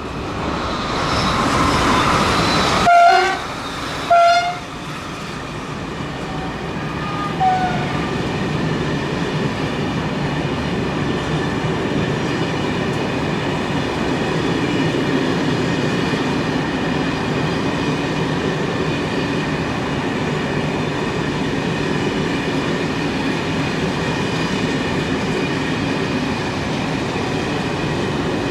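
A train approaching and sounding two short horn blasts about three and four seconds in, then running steadily past on the mainline, its wheels and wagons rumbling without a break.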